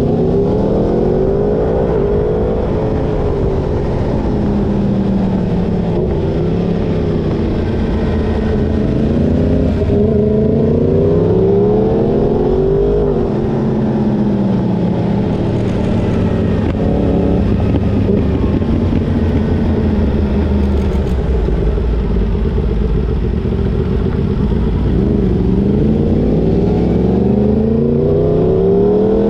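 Yamaha sportbike crossplane inline-four engine revving up and easing off again and again as it is ridden through bends, its pitch climbing and falling every few seconds, over a steady low rumble.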